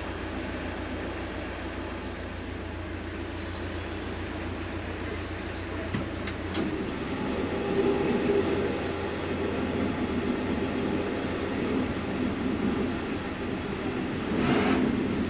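An engine running steadily, with a steady low hum that gives way about six and a half seconds in, just after a couple of sharp clicks, to a rougher and slightly louder drone.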